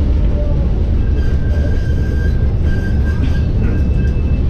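1914 Cleveland Railway streetcar running along the track: a steady, loud low rumble from wheels and running gear, with thin squealing tones from the wheels, a higher squeal coming in near the end.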